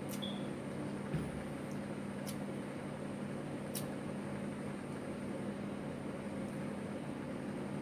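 Steady hum of a running household appliance, with a few faint clicks in the first four seconds.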